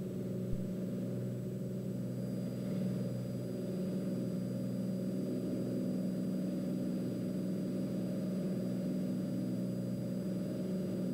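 Turbocharged Cessna 206's six-cylinder piston engine and propeller at full takeoff power during the initial climb, heard from the cockpit as a steady, muffled low drone. A faint steady high whistle joins in about two seconds in.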